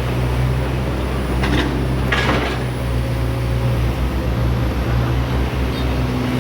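Hydraulic excavator's diesel engine running steadily with a low drone, with two brief rushing noises about a second and a half and two seconds in.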